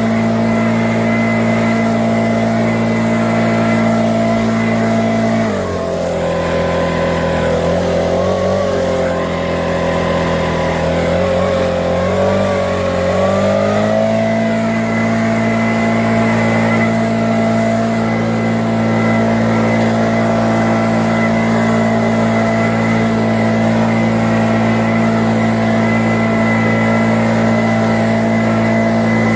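Exmark 48 walk-behind mower engine running steadily on fresh spark plugs. About five seconds in its speed drops and wavers for several seconds, then climbs back up and holds steady.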